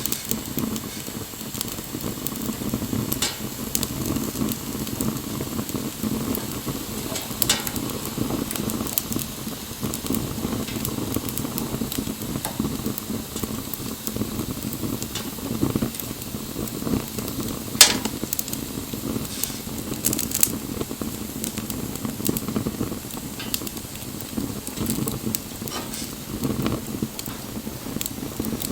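Wood bonfire burning: a steady low rush of flames with scattered crackles and pops, one sharp pop about two-thirds of the way through.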